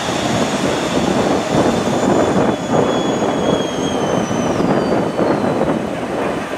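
ČD class 150 electric locomotive hauling a passenger train slowly into the platform: a steady rumble of the locomotive and wheels on the rails, with a thin high whine that glides down in pitch from about two seconds in as the train slows.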